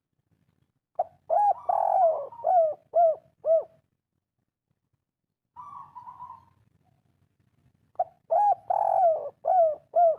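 Spotted dove cooing its 'kuk 3' song: a phrase of several loud, arched coos about a second in, then a soft rolling note, then a second phrase of coos near the end.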